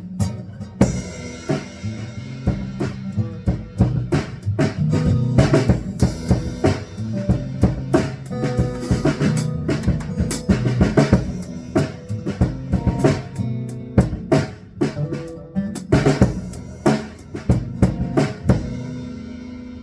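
A band jamming instrumentally, led by a drum kit with kick, snare and rimshot hits over sustained bass and guitar notes, winding down near the end.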